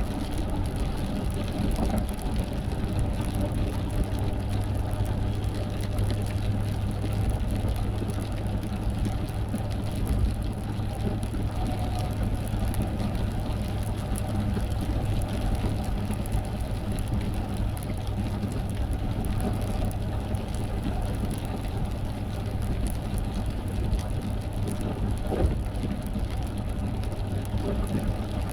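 Steady engine and road noise of a car driving, heard from inside the cabin as a continuous low drone.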